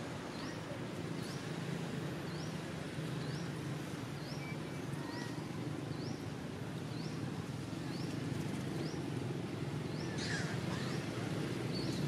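Outdoor ambience in which a bird repeats a short rising chirp about once a second over a steady background hiss, with a louder, sharper call about ten seconds in.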